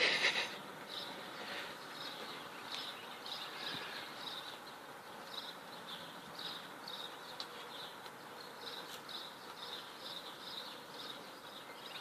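Insect chirping outdoors: short high chirps repeating unevenly, about one to two a second, over a faint background, after a short noise right at the start.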